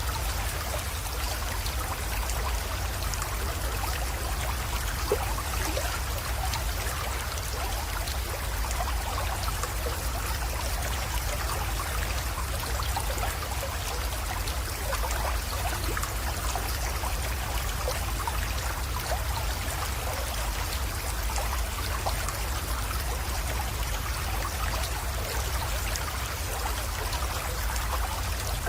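Small creek water flowing and trickling steadily, with a low rumble underneath and one faint tick about five seconds in.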